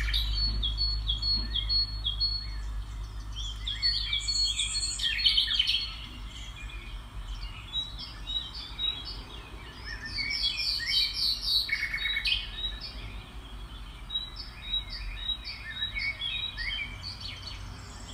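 Several songbirds chirping and trilling in quick, repeated short notes, busiest about a third of the way in and again past the middle, over a steady low rumble.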